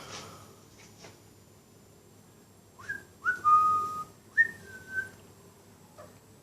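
A person whistling a short phrase to a sleeping pet magpie to wake it: two quick rising notes, a longer held note, then a higher note stepping down to a lower one.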